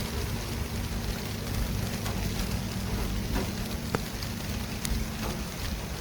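Steady city traffic noise: a continuous low rumble and hiss with a steady low hum through it and a few faint ticks.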